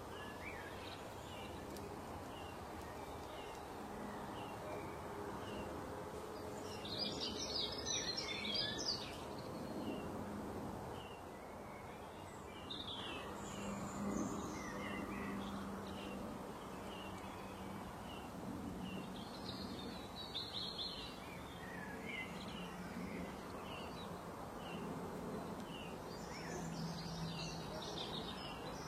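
Birds chirping, many short calls scattered throughout with several denser bursts of song, over a steady background hum.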